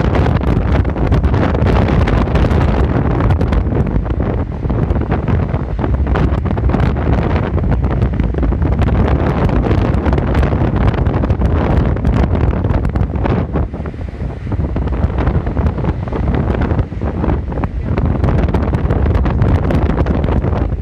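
Strong storm wind buffeting the microphone: a loud, heavy rumble with constant fluttering gusts, easing briefly about two-thirds of the way through.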